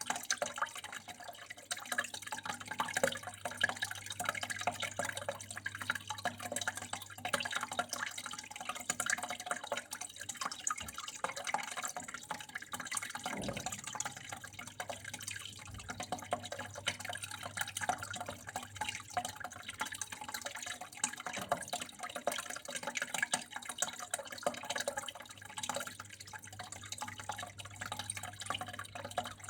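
Water flowing and dripping in a continuous irregular patter of small splashes, over a steady low hum. A brief low knock comes about halfway through.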